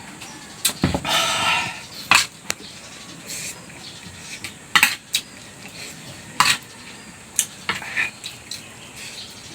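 Cutlery clinking against a plate again and again with sharp short clicks, the ordinary sounds of eating a meal of rice and gizzards.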